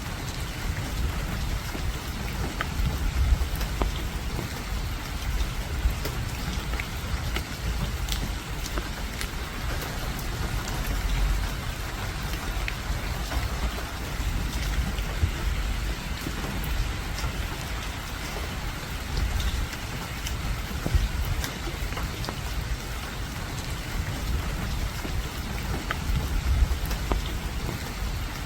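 Steady rainfall, with many individual drops ticking sharply close by over an even hiss and a low rumble underneath.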